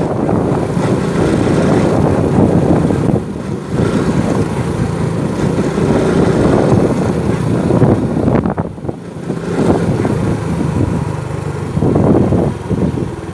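Motorcycle engine running under way, heard from on the bike; the engine note drops away briefly twice, about three seconds in and again past the middle.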